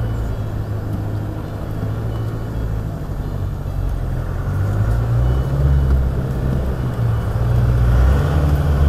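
Land Rover Defender's engine running as it drives slowly over a muddy off-road track, a steady low drone whose revs rise and grow louder about halfway through and again near the end.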